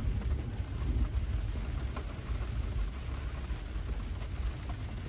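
Steady rain falling, under a low, uneven rumble of distant thunder.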